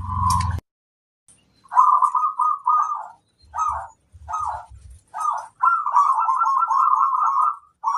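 Zebra dove (perkutut) cooing: bursts of rapid, rippling coo notes that run into a longer trilled phrase near the end. A low hum cuts off suddenly just after the start.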